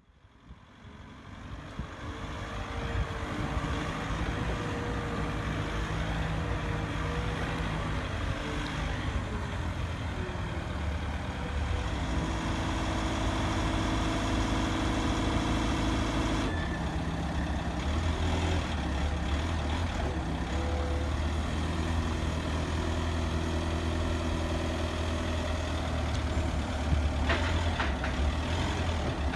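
Truck engine running steadily, fading in from silence over the first few seconds, its pitch pattern shifting about halfway through.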